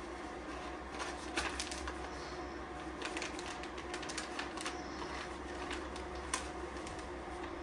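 Vacuum sealer motor running with a steady hum, with many sharp clicks and crackles scattered over it.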